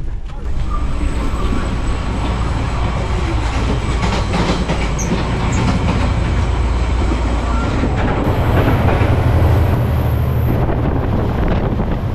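Northern Explorer passenger train running along the track, its wheels on the rails making a steady low rumble that swells a little about two-thirds of the way through.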